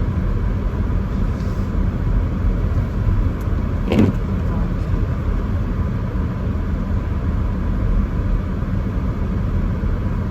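Steady noise inside a moving car's cabin: road and engine noise mixed with the heater fan blowing at full speed, which is very loud. A short thump about four seconds in.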